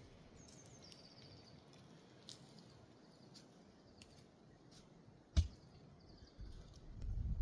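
Faint outdoor ambience with high, short chirping calls and scattered light clicks, a single sharp knock about five and a half seconds in, and a low rumbling noise building near the end.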